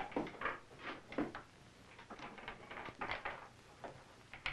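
Hand-powered rifle-barrel boring bench at work, its bit driven by a chain and weight: a string of faint, irregular scrapes and knocks, about two to three a second.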